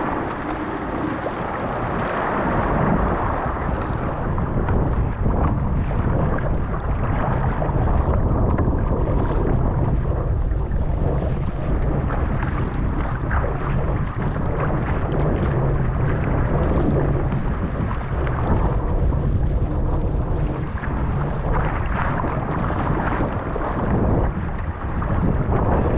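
Strong wind buffeting the microphone in a steady heavy rumble that swells and eases, over the splash and rush of choppy waves.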